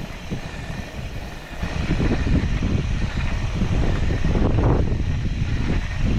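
Low rumbling from an e-bike's TQ mid-drive motor and cranks in motion, stepping up in level about two seconds in. This is the grinding that the local bike shop traced to the upgraded cranks.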